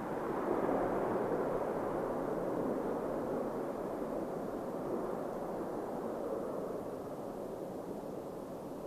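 Jet engine noise from an Airbus A350-941's Rolls-Royce Trent XWB turbofans as the airliner passes. It is loudest about a second in and fades slowly.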